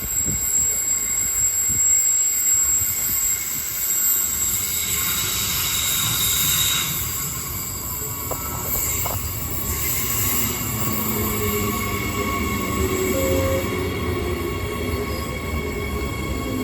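Electric multiple-unit train IMU184 running through the station: a continuous rail rumble with steady high-pitched squealing tones, which shift about halfway through.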